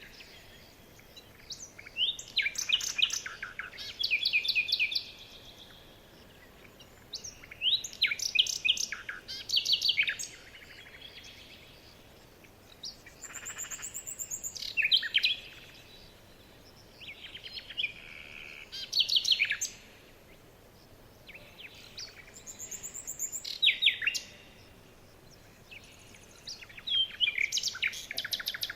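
Songbirds singing: short phrases of quick chirps and trills, about one every three or four seconds, with brief pauses between them.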